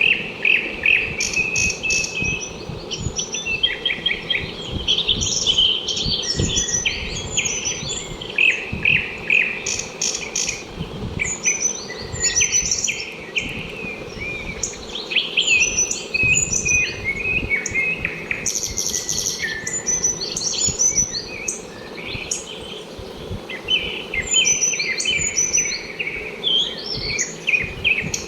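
Several small birds chirping and twittering, their short calls overlapping without a break.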